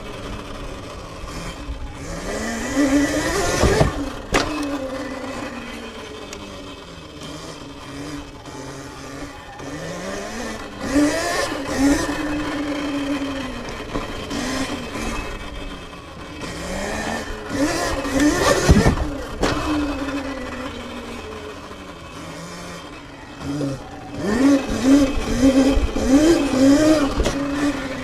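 Sur-Ron electric dirt bike's motor whining, rising in pitch as it speeds up and falling away, several times over. A brief loud rush comes at about 4 and 19 seconds in. Near the end there is a quick run of short throttle blips, each with a rising and falling whine.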